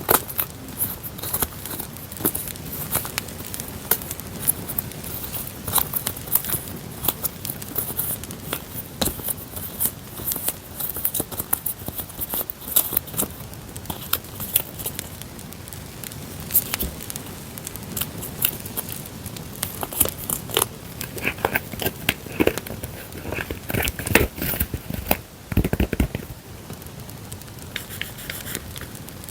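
Paper and packaging being handled, with crinkling, rustling and tearing, over a crackling campfire recording mixed in underneath. A few louder handling noises come about two-thirds of the way through.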